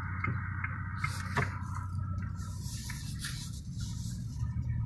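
Chery Tiggo 7's engine heard from inside the cabin as a steady low hum while the car moves off, with a single sharp click about a second and a half in.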